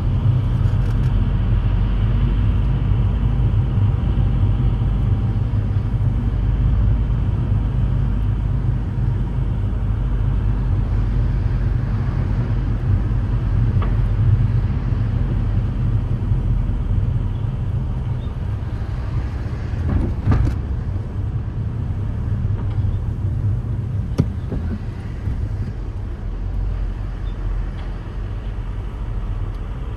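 A car being driven: steady low engine and road rumble, with a brief louder knock about twenty seconds in.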